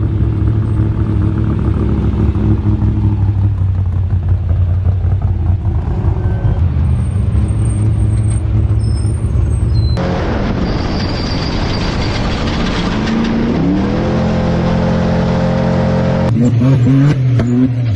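Off-road race vehicle engines, in shots that cut from one to the next: a steady low engine drone, then abruptly a different engine climbing in pitch as it accelerates, with another abrupt change near the end.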